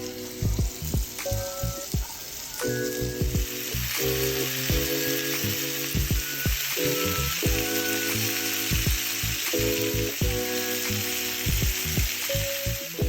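Food sizzling as it fries in a pan, a steady hiss, under background music with a steady beat.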